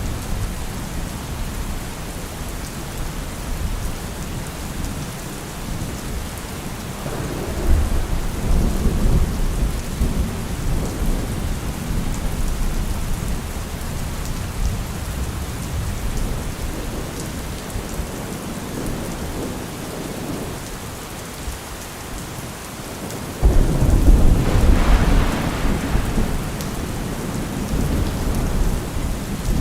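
Steady rain falling, with thunder rumbling twice: a rumble about a third of the way in and a louder, sudden crack and rumble about three quarters of the way through.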